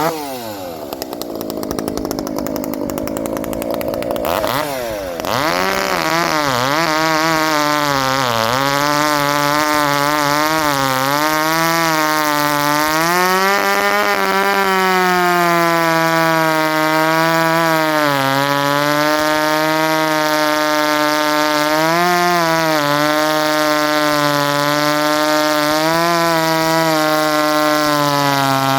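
Two-stroke chainsaw cutting a hardwood log. Its revs drop at first, climb about five seconds in, and then hold high and steady in the cut, the pitch dipping briefly a few times.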